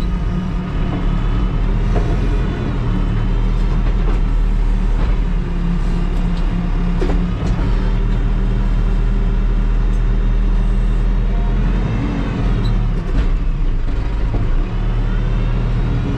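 Terex TLB-815 backhoe loader's diesel engine running steadily under working load, its note rising and falling briefly about twelve seconds in. A few short knocks sound over it.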